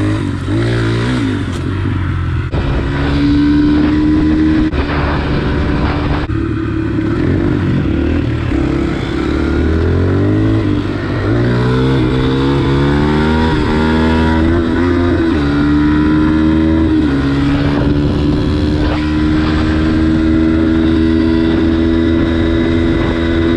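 Pit bike engine running while ridden, its pitch wobbling early on. About halfway through it climbs in several pulls as the bike accelerates, then holds a mostly steady pitch at cruising speed.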